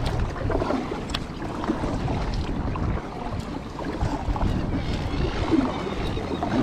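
Kayak paddle strokes splashing through the water, with low wind noise on the microphone.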